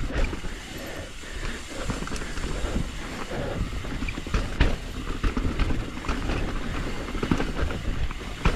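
Hardtail mountain bike riding over rough dirt trail: tyres rumbling on the ground with the frame, chain and components clattering, many sharp knocks from roots and rocks.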